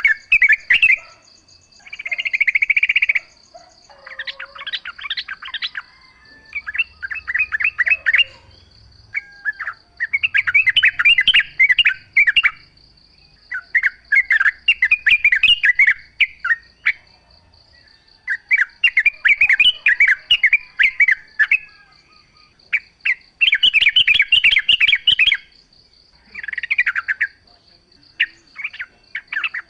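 Yellow-vented bulbul song: repeated bursts of quick, bubbling chattering notes, each phrase one to three seconds long with short pauses between. A steady high-pitched buzz runs underneath throughout.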